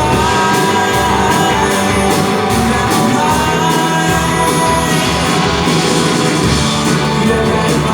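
Live band playing a rock song, with a steady drumbeat and singing.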